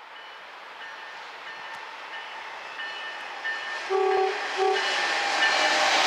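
Amtrak passenger train, led by GE P42DC Genesis diesel locomotives, approaching at speed, its rushing noise growing steadily louder. About four seconds in, the locomotive horn sounds two short blasts, the second shorter than the first.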